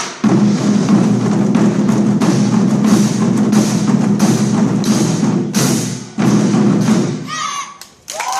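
Chinese war drums played in a fast, continuous roll, with sharp accent strikes about twice a second, stopping abruptly about seven seconds in to end the piece.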